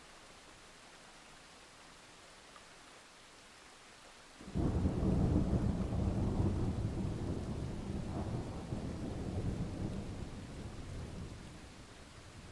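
Steady rain, then about four and a half seconds in a sudden loud clap of thunder that rolls on as a deep rumble for several seconds and slowly fades back under the rain.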